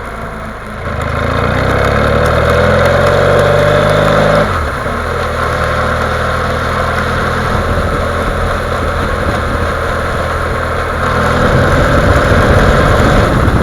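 BMW F800 GS parallel-twin engine running with a knocking noise whose cause the owner doesn't know. The engine is raised to a higher steady speed about a second in, drops back to idle after a few seconds, and is raised again near the end.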